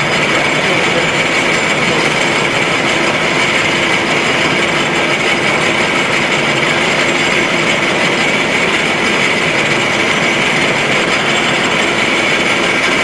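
Milling machine running steadily: a continuous loud mechanical noise with a steady high whine.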